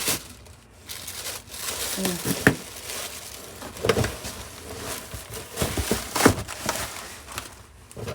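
Cardboard box and packaging being handled and opened by hand: rustling and crinkling with scattered sharp knocks and scrapes.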